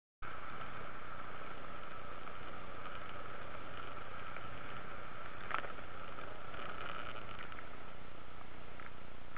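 Steady road and engine noise inside a moving car, as picked up by a dashcam, with a constant whine over it and a single click about five and a half seconds in.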